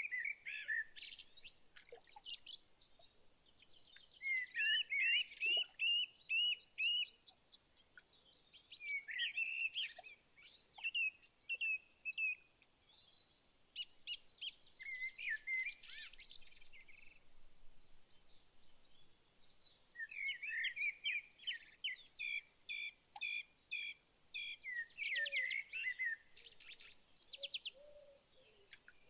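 Songbirds singing in woodland: several birds chirping and trilling in short repeated phrases separated by brief pauses, with a run of fast repeated notes in the second half.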